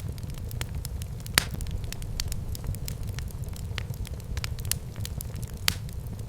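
Wood fire burning in a fireplace: a steady low rumble of flame with constant small crackles and a couple of louder pops, one about a second and a half in and one near the end.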